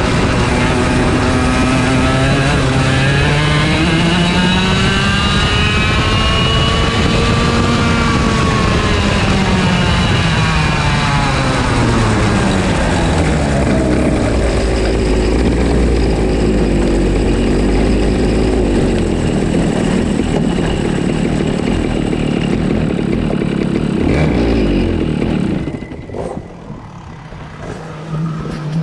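On-board sound of an IAME Leopard 125cc two-stroke kart engine under load, its pitch rising steadily for several seconds and then falling back as the kart slows. Near the end the engine note drops away sharply and gets much quieter.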